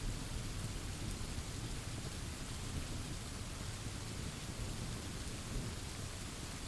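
Steady rain pouring, with a low, continuous rumble of thunder underneath.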